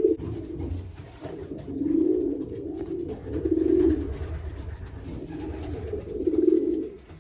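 Racing pigeons cooing in a loft: a run of low coos, the loudest about two, three and a half and six seconds in.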